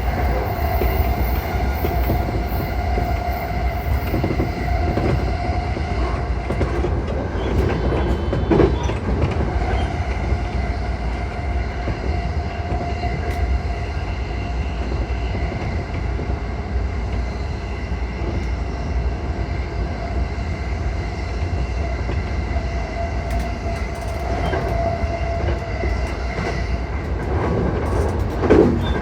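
JR East E235-1000 series electric train running along the track, heard from inside the car: a steady low rumble of wheels on rail with a held motor hum. Two louder clatters come about eight seconds in and again near the end.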